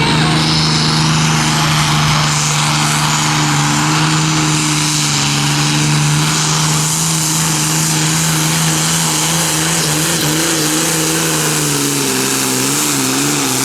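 Competition pulling tractor's engine running hard under load, holding a steady pitch, then wavering up and down over the last few seconds.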